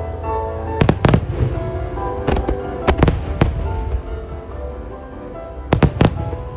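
Aerial fireworks shells bursting in sharp bangs, in quick clusters about a second in, from two to three and a half seconds in, and three in a row near the end, over piano music played for a synchronized music starmine.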